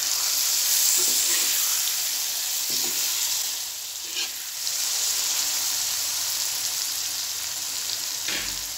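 Okra masala sizzling in hot oil in a metal kadai while a slotted metal spatula stirs it, with a few short scrapes and knocks of the spatula against the pan.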